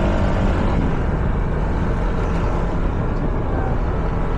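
Scooter being ridden on the road: its engine runs steadily under a constant rushing noise.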